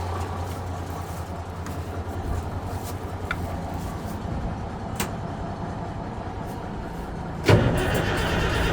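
A deuce-and-a-half 2.5-ton army truck's engine being cranked on the starter with a steady pulsing churn after sitting unstarted for well over a year. It catches and fires up suddenly and louder near the end.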